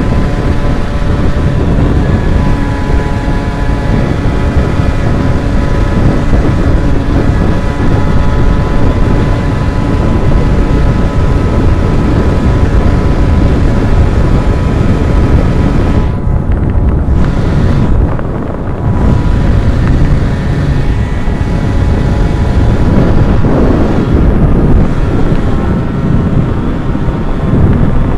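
Two-stroke motorcycle engine running at a steady pace while riding, with heavy wind rushing over the microphone. The high hiss drops away briefly a little past halfway.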